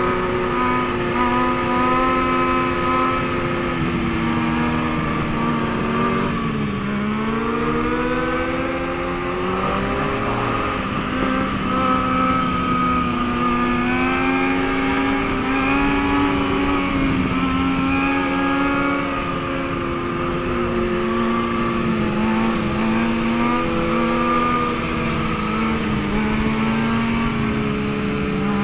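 Motorcycle engine running for the whole stretch, its pitch drifting up and down as the throttle is worked, with no sharp revs until just after the end.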